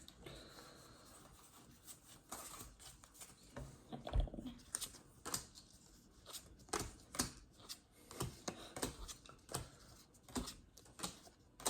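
Pokémon trading cards and booster-pack wrappers being handled: a string of soft, irregular clicks and rustles as cards are slid and flicked through one by one, a little louder about four seconds in.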